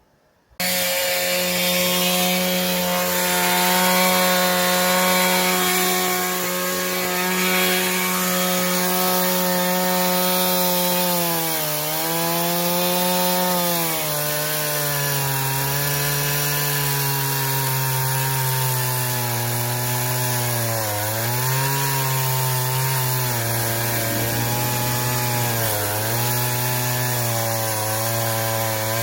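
Chainsaw with a two-stroke engine running at high revs and cutting through oak logs. Its pitch sags each time the chain bites into the wood under load, several times in the second half. It starts abruptly about half a second in.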